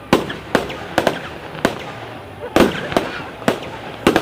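Fireworks display: a string of sharp bangs from bursting shells at irregular intervals, about seven in four seconds, with the last two coming close together near the end.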